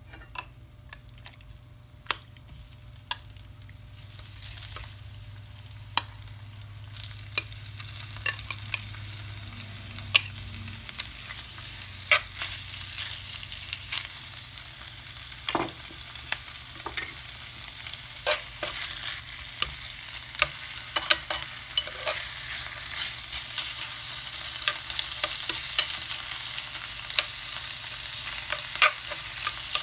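Sliced chicken and chopped onion sizzling on a hot grill pan, the sizzle building steadily louder as the meat goes on and heats. Many sharp clicks and taps run through it as the pieces are laid in and stirred.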